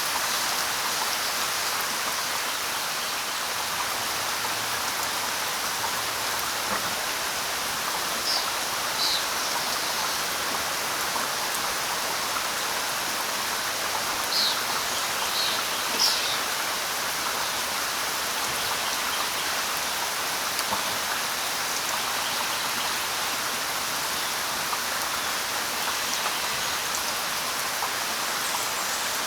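Steady light rain falling on leaves, with a few short, high bird chirps a third to halfway through.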